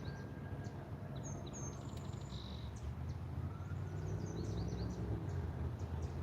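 Small birds chirping in short, repeated high notes over a steady low hum.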